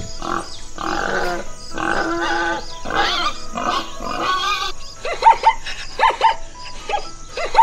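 Domestic pig grunting repeatedly in rough, noisy calls. About five seconds in, these give way to a quick run of short, sharp, repeated barking calls of a zebra.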